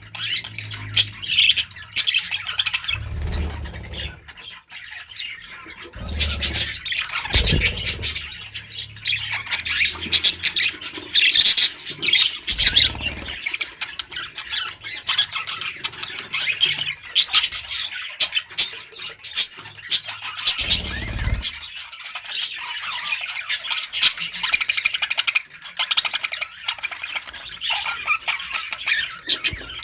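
A flock of budgerigars chattering and warbling continuously, with many short chirps, squawks and clicks. A few brief low rumbles break in now and then.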